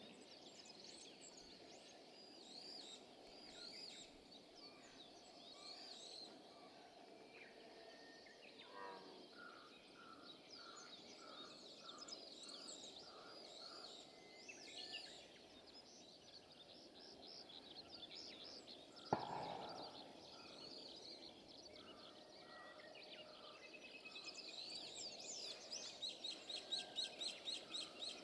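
Faint outdoor birdsong: many small birds chirping and trilling. In the middle a bird repeats an even lower note about twice a second. A single sharp click comes about two-thirds of the way through, and a quick run of chirps, about four a second, comes near the end.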